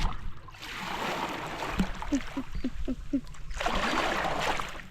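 Kayak paddle strokes splashing and dripping in river water, in two stretches. Between them comes a quick run of about six short squeaky notes.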